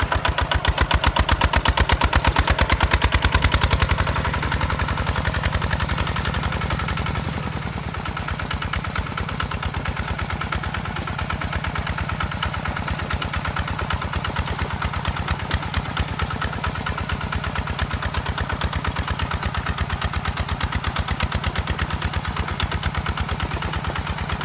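Single-cylinder diesel engine of a walking hand tractor running with a rapid, even chugging. It is louder for the first few seconds, then eases off and runs on steadily.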